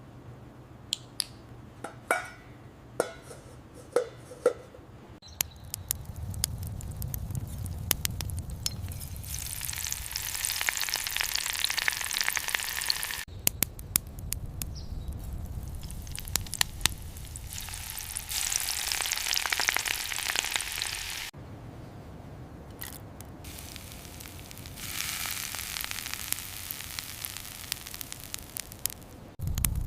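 Food frying in hot oil in a small pan: a sizzle that comes and goes in separate stretches, breaking off suddenly several times. Light taps and clicks in the first few seconds.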